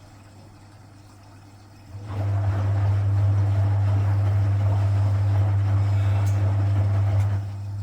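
Vintage Frigidaire Super Deluxe Automatic 50 washing machine's induction motor starts up about two seconds in, a loud steady hum with a rough churning layer as the drum turns the wet laundry, then drops to a quieter running level near the end.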